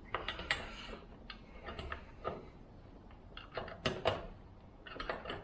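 Chainsaw bar and chain being handled while refitted: scattered light metallic clicks and scrapes, with a sharper knock about four seconds in.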